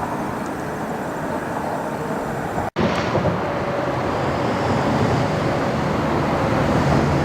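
Steady outdoor rumbling noise, cut off for an instant by a dropout near three seconds in, then carrying on.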